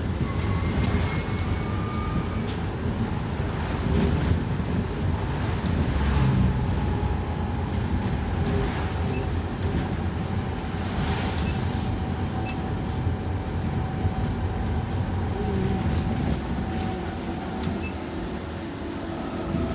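School bus driving along: a steady low rumble of road and drivetrain noise, with a faint steady whine and occasional light rattles.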